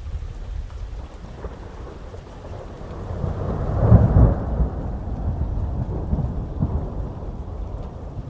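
Thunder rumbling over steady heavy rain. The roll builds to its loudest about four seconds in, then rumbles on more weakly and fades.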